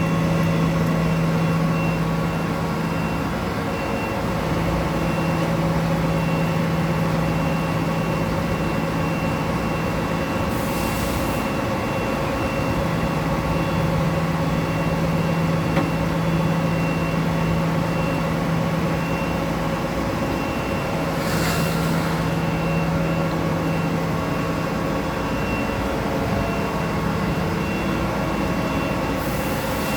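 A machine tool runs steadily, giving a constant mechanical hum with several steady tones; the lowest tone drops out for a moment twice. Two short hisses come about 11 and 21 seconds in.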